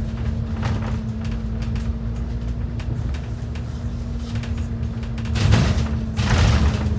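Transit bus riding along, heard from inside: a steady low rumble of engine and road with a constant drivetrain hum and light rattles. Near the end come two brief, louder rushing surges.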